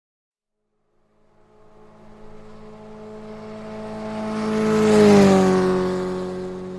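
A motorcycle passing by. Its engine note fades in and grows louder, then peaks about five seconds in, where the pitch drops as it goes past, and it fades away.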